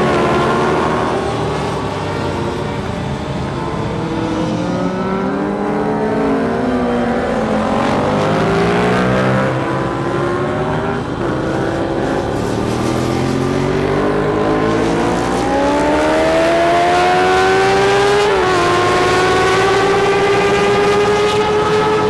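Racing engines at high revs on a track: pitch climbing and falling as they accelerate and pass, with several engines overlapping in the middle and a sudden pitch drop from a gear change near the end.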